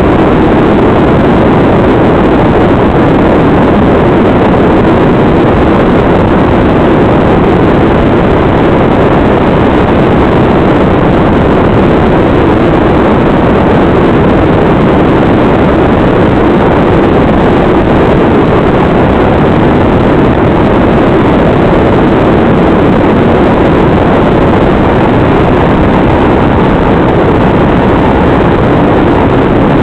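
Loud, steady static hiss on an FPV goggles' DVR audio track, from the analog video receiver, unchanging throughout.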